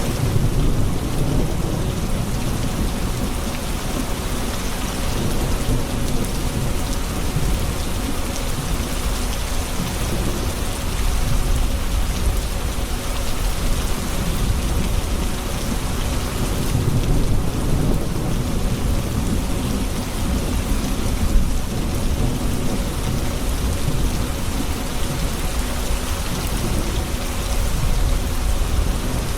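Thunderstorm: steady rain falling on surfaces, with low rolling thunder rumbling underneath.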